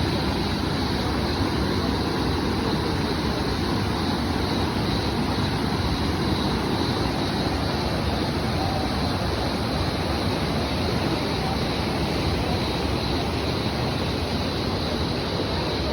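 Steady rushing of the Upper Düden Waterfall, falling water at an even level throughout.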